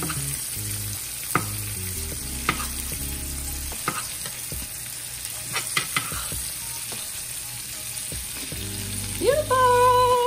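Chicken breasts sizzling in butter in a nonstick skillet, with a metal spoon clicking and scraping against the pan as the juices are spooned over them to baste. Near the end a short pitched tone rises and then holds; it is the loudest sound.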